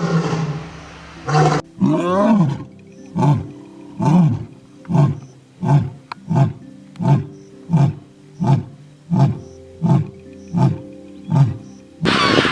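Big cat roaring: after a cut about a second and a half in, a run of about a dozen short, evenly spaced roars, each a little under a second apart.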